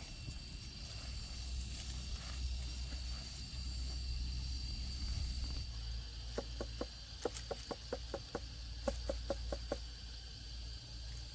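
Insects chirring steadily in a high, even tone over a low rumble. About six seconds in, a quick run of short knocks, roughly four a second, comes in for about three seconds.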